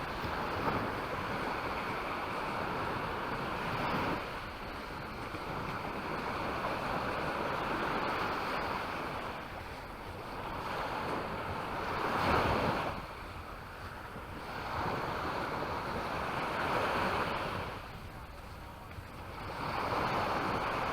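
Small waves breaking and washing up a sandy shore, the surf swelling and falling back about every four seconds.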